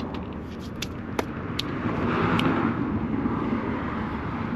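A few sharp clicks of amethyst pieces knocking together as they are handled, over a steady low rumble.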